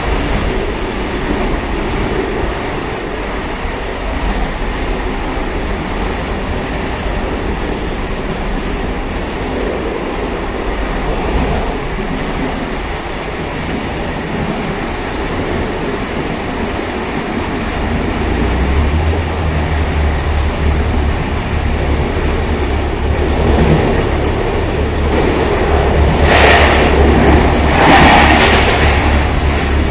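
Railcar running on the track with a steady rumble. A low, even drone comes in after about eighteen seconds, and near the end two short, louder rushes of noise stand out.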